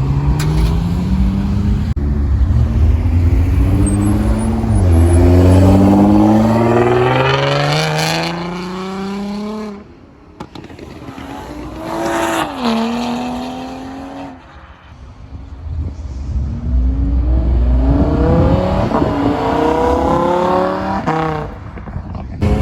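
Performance car engines accelerating hard away one after another, their notes climbing through the gears with a drop at an upshift, a brief blip of revs in the middle, and a last long rising pull near the end.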